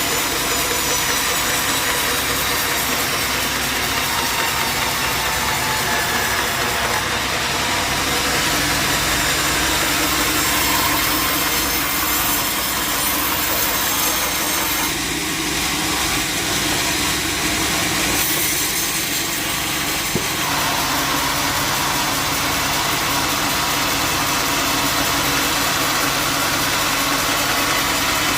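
A sawmill running steadily, its engine droning under the noise of a saw blade cutting through wood.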